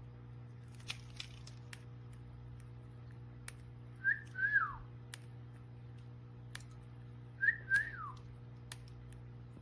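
A pet bird calling twice. Each call is a pair of short whistled notes that slide downward, over scattered light clicks.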